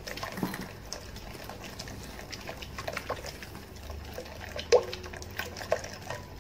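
Milk poured slowly into a bowl of cake batter while it is stirred, the liquid sloshing with irregular light knocks and clinks of the utensil against the bowl. One clink is louder, about three-quarters of the way in.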